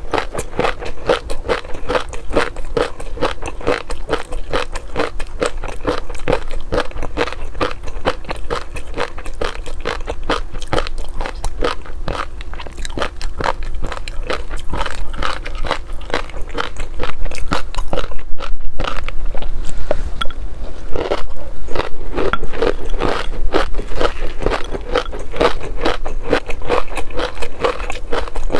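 Close-miked chewing and biting of crunchy seafood food, a dense run of rapid crisp crunches that grows louder about two-thirds of the way through.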